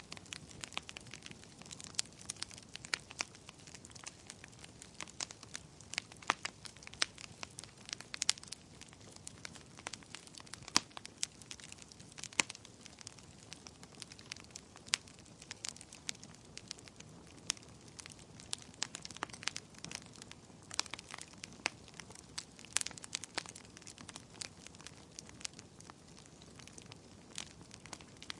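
Wood fire crackling: irregular sharp pops and snaps of varying loudness over a faint steady hiss of burning.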